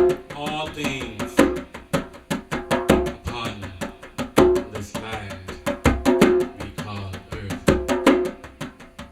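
African drum music: a fast, steady rhythm of drum strokes, with a deeper beat about every one and a half seconds.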